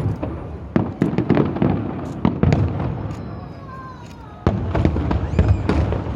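Fireworks display: a rapid run of shell bursts and crackling, with a loud bang about four and a half seconds in. A short falling whistle is heard a little after three seconds.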